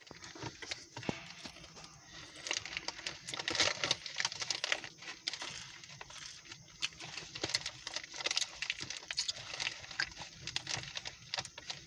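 Irregular rustling and crackling with many small clicks, rising and falling unevenly.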